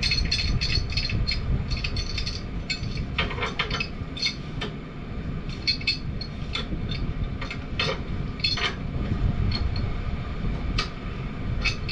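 Metal tools clicking and clinking irregularly: steel pipe wrenches being handled and fitted onto a gas-pipe union, over a steady low rumble.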